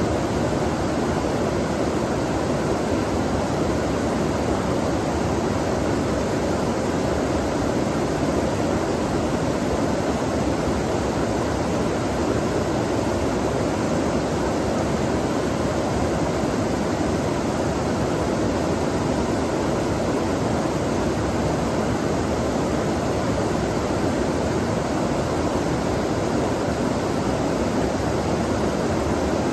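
Flowing stream water rushing steadily, a constant even noise with no breaks.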